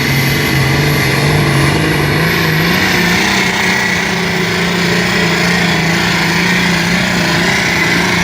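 Turbocharged American six-cylinder tractor engine pulling hard under full load on the sled, its pitch climbing over the first three seconds and then holding steady, with a high whine above it.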